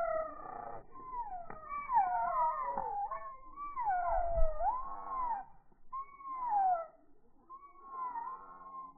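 Starlings calling: several overlapping whistled glides, mostly falling in pitch with a few rising-and-falling arches, coming in bouts and thinning out near the end.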